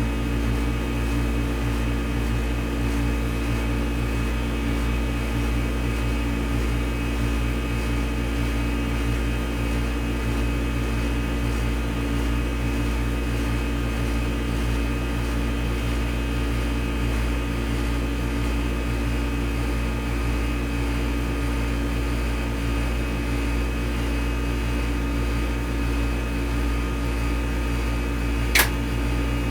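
Film projector running steadily: an even motor hum with several steady tones in the mechanical whirr, and one sharp click about a second before the end.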